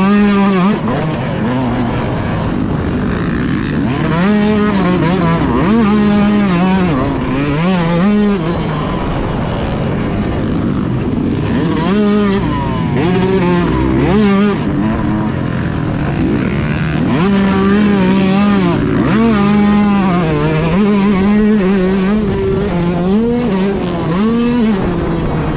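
Motocross bike engine heard from the bike during a race, revving high and dropping again and again as the rider accelerates, shifts and rolls off around the track.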